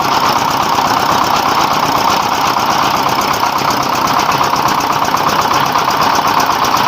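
A diesel-driven rice mill running steadily under load: a 24 hp dompeng diesel engine turning the hulling and polishing machinery. The result is a loud, continuous mechanical din with the engine's rapid beat running through it.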